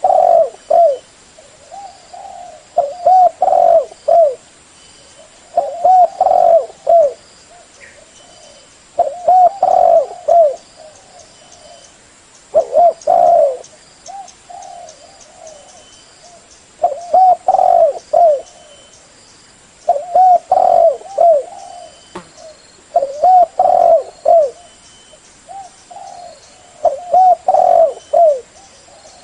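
Spotted dove cooing: a phrase of several low, hooting coos repeated about every three to four seconds.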